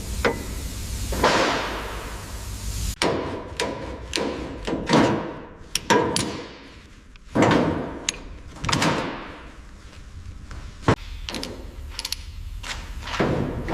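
Irregular knocks and thuds, a dozen or so, some with a short swishing sweep around them, from work on a car body in a workshop.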